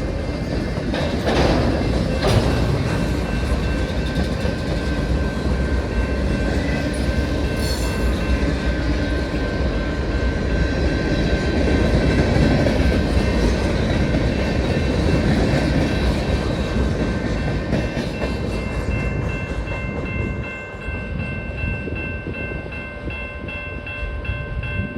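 CSX freight train rolling past, its cars' wheels rumbling and clacking over the rail joints, with two sharp clanks in the first few seconds. The rumble eases after about 20 s while a steady high ringing tone comes through more clearly.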